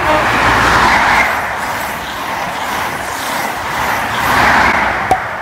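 East Midlands Railway InterCity train passing close by at speed: a loud, continuous rush of wheel and rail noise that swells again near the end, with one sharp click about five seconds in.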